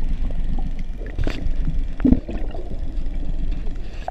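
A low, steady rumble with water sloshing and a few light knocks, as on a small boat on the water.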